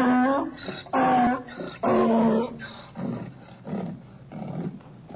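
An animal calling: three loud, pitched cries about a second apart, then fainter, lower calls.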